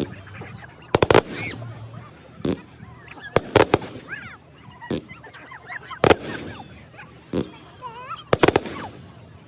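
Firework shells bursting in a display: sharp bangs roughly every second, some in quick pairs, with high wavering squeals between them.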